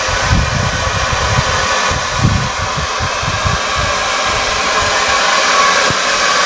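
Electric air blower forcing air into a coal-fired melting furnace: a steady loud rush with a faint constant whine, over uneven low rumbling from the fire or wind. The air blast keeps the fire hot enough to melt brass in the crucible.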